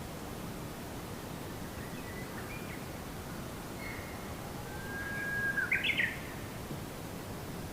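Birds chirping over a steady background hiss: a few short scattered chirps, then a louder call a little after five seconds, a held whistle that breaks into quick rising notes.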